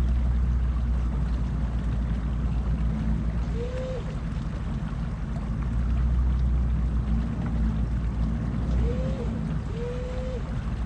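Truck engine running at low speed under light load, a steady low hum, with three brief squeaks that rise and fall in pitch, one about four seconds in and two close together near the end.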